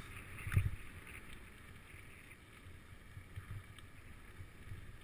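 Wind buffeting the microphone in uneven low rumbling gusts, with one louder thump about half a second in.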